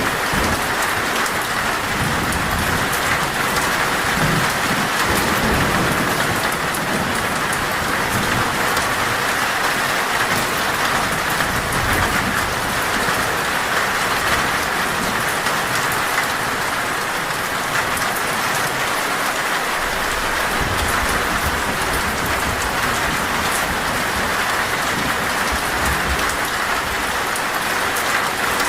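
Heavy rain pounding steadily on a metal roof, with low rolls of thunder rumbling underneath in the first few seconds and again in the last third.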